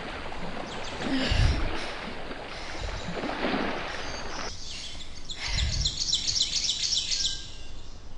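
Outdoor nature ambience with a couple of low thuds. Near the end a bird gives a quick run of about ten high chirps.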